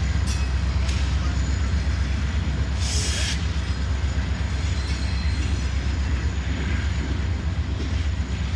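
Freight train cars rolling past: a steady low rumble of steel wheels on rail, with a faint high thin tone and a brief hiss about three seconds in.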